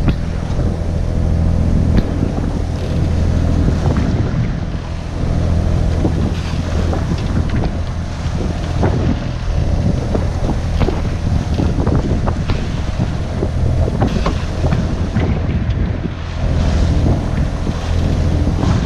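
A Fuji 35 sailboat's inboard engine running steadily under way at about 2,300 RPM, a low even hum, with wind buffeting the microphone and irregular knocks through the boat.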